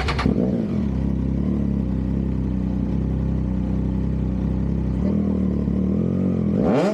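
Triumph Trident 660's inline three-cylinder engine idling steadily, then revved with a rising pitch near the end.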